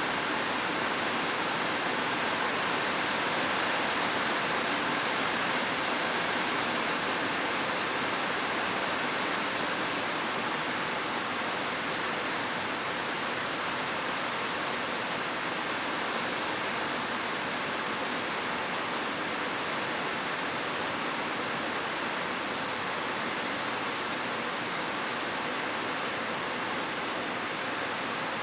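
Heavy rain falling in a steady, even hiss with no single drops or gusts standing out.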